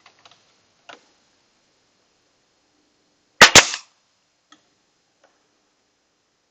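A nail gun firing once about halfway through, a sharp double crack, with a few faint knocks of wood handling around it.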